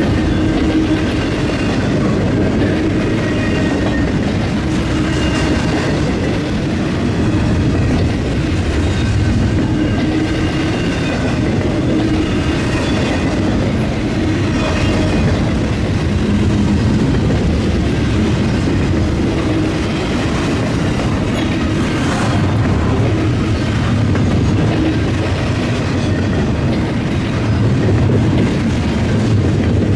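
Freight train cars rolling steadily past, their wheels clattering over the rail crossing diamond, with faint high wheel squeal at times.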